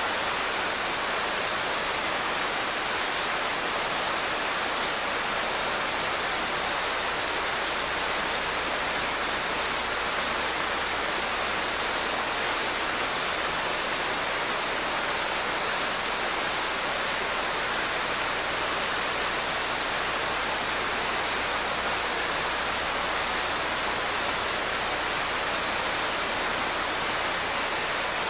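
Mountain stream water rushing steadily, an even, unbroken rush.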